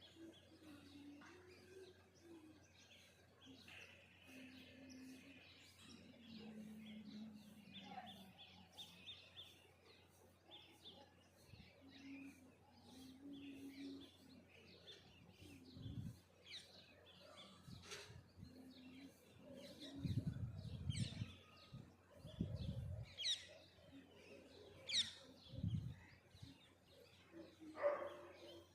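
Several birds chirping and calling in a morning dawn chorus: many short high chirps, a few quick falling whistles in the later part, and short low steady notes now and then. Several low rumbling thumps about two-thirds of the way through are the loudest sounds.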